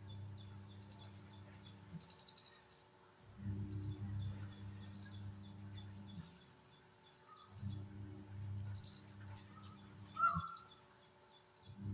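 Birds chirping in high, rapid runs over a low steady hum. The chirps and hum come and go together in a cycle of about four seconds, and one short, louder call sounds near the end.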